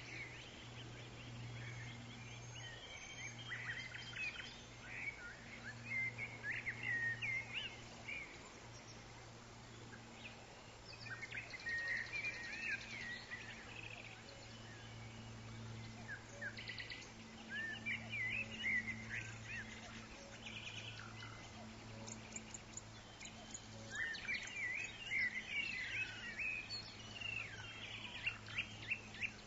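Forest birds chirping and twittering in several bursts of quick calls, busiest near the start and toward the end, over a steady low hum.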